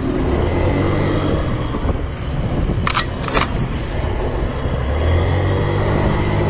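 A motor vehicle running, with a steady low drone of engine and road noise. Two short, sharp noises come close together about three seconds in.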